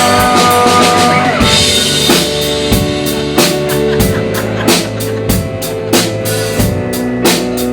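Rock band playing: a held note ends about a second and a half in, then an instrumental stretch with a steady drum-kit beat over bass and guitar.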